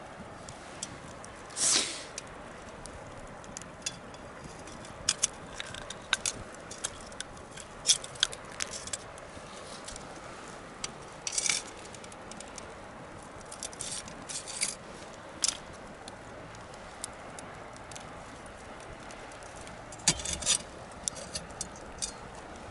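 Wood bonfire crackling: irregular snaps and pops over a steady low hiss, with a few louder cracks about two seconds in, near the middle and near the end.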